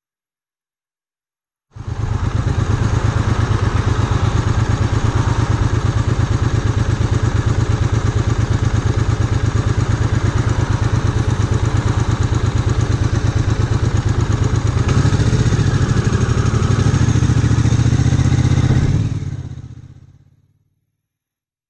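Triumph Bonneville America's parallel-twin engine running with a fast, even pulse, its low note shifting and getting stronger about three-quarters of the way through. It cuts in suddenly and fades out near the end.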